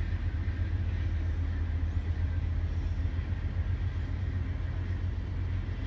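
Passenger train rolling past the station platform: a steady low rumble heard from inside a car.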